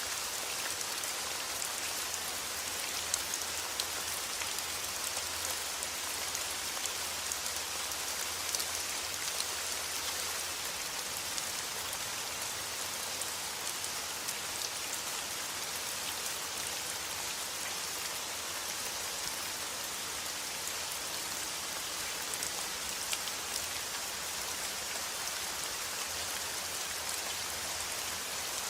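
Steady rain falling on a surface: a dense, even hiss with the sharp ticks of single drops scattered through it, over a steady low rumble.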